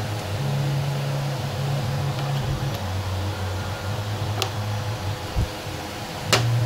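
Steady low mechanical hum whose pitch steps up and down, with a sharp click about four seconds in and a louder one near the end.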